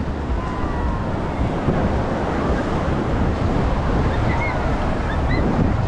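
Strong wind buffeting the microphone over the steady rush of surf breaking on a sandy beach.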